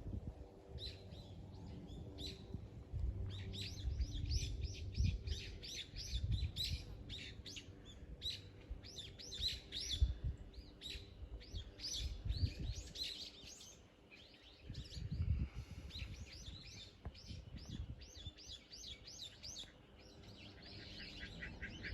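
Small birds chirping, with many short high calls in quick runs and a dense patch near the end. Low rumbles come and go underneath.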